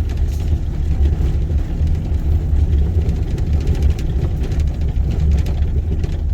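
Vehicle driving on a bumpy road, heard from inside the cabin: a steady low rumble of engine and road noise, with many small rattles and clicks over it.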